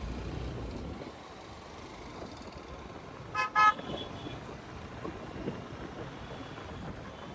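A vehicle horn beeps twice in quick succession about three and a half seconds in, over the steady low rumble of a motorcycle on the move.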